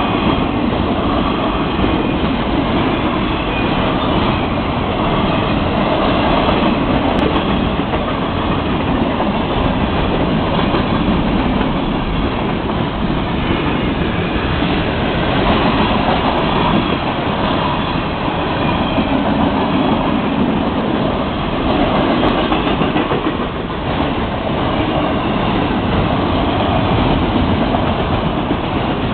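Florida East Coast Railway freight cars rolling past at speed: a steady, loud noise of steel wheels running on the rails.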